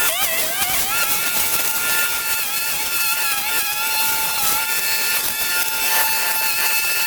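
Small engine of a garden power tool running at high revs, its pitch wavering for about the first second and then holding steady.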